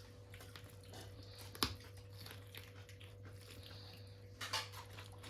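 Someone biting into and chewing a piece of fried chicken: faint mouth sounds, with a sharp click about a second and a half in and a short burst of chewing near the end, over a steady electrical hum.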